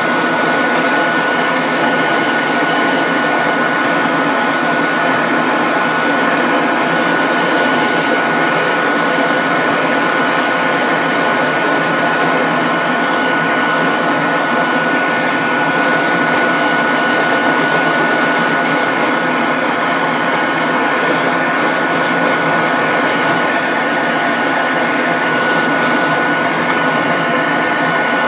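An electric blower motor running steadily, with a constant airy rush and one steady high whine.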